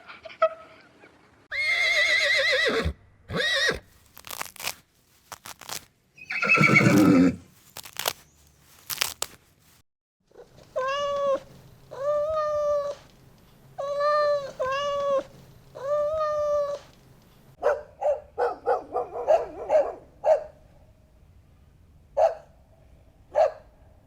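A run of different farm animal calls: a wavering call and a loud falling call in the first third, then five even calls of about a second each, then a quick string of short calls near the end.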